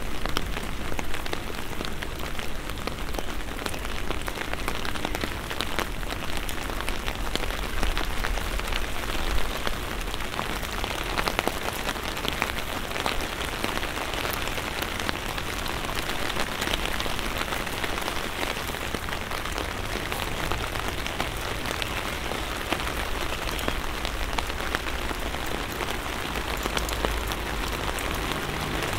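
Gentle rain falling steadily on a wet street, a continuous patter with many individual drop ticks.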